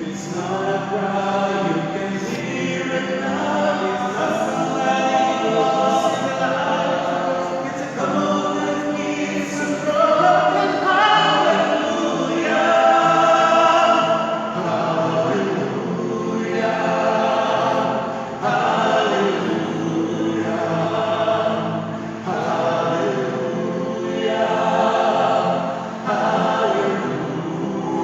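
Choral music: several voices singing sustained, swelling phrases together over an accompaniment.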